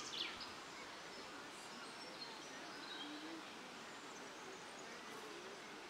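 Outdoor ambience under trees: a bird's rapid trilling song ends just at the start, then faint scattered bird chirps over a steady low hiss.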